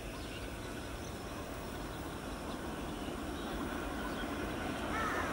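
WAP-4 electric locomotive and its passenger coaches approaching: a steady, distant running noise that grows slowly louder as the train comes closer. A crow caws once near the end.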